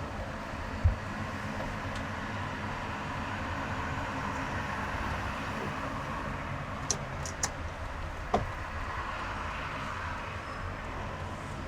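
Steady road and engine noise of a car driving in highway traffic. A low thump comes about a second in, and two sharp clicks and a knock come a little past the middle.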